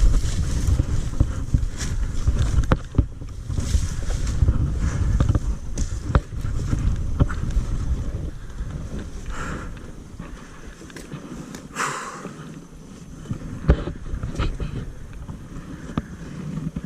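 Dirt bike riding noise: wind buffeting the microphone over a low engine rumble, with scattered knocks and rattles. It eases off and grows quieter about halfway through.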